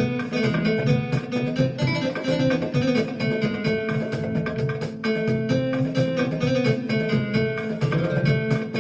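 Instrumental music played on a Roland electronic keyboard: a plucked, guitar-like melody and chords over a steady rhythm, with no singing.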